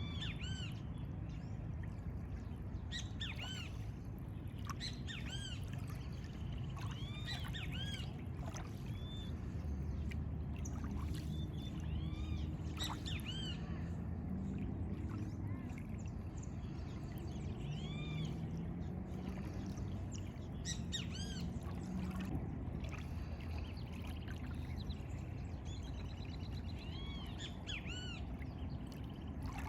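Several birds chirping and calling, with many short, arched high notes repeated throughout, over a steady low background rush.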